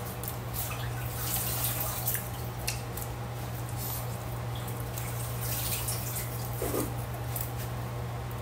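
Wet mouth sounds of a person chewing soft, starchy boiled lesser yam: scattered lip smacks and small clicks over a steady low hum.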